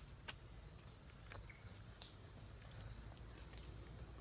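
Steady, unbroken high-pitched insect buzz from the jungle, with a couple of faint clicks.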